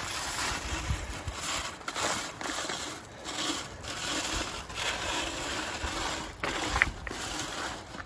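Creek gravel and rocks scraping and rattling against each other and the wire screen of a sifter as they are spread and stirred by hand, a continuous crunching clatter.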